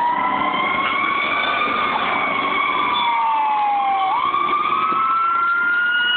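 Fire engine siren wailing, its pitch gliding slowly up and down, with a quick jump upward about four seconds in.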